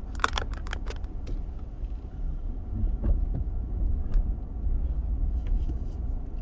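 Steady low rumble of a vehicle driving slowly, heard from inside the cab, with a few light clicks in the first second.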